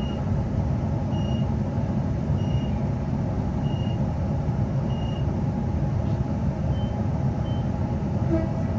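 A passenger train's electronic beeper giving short high beeps about every 1.2 s while the train stands at the platform with its doors open. Two slightly higher-pitched beeps come near the end. Under the beeps runs the steady low hum of the stationary NGR electric train.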